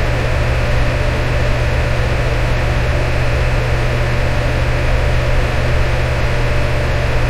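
Electric fan running steadily: an even rush of air over a low motor hum, with no change in speed.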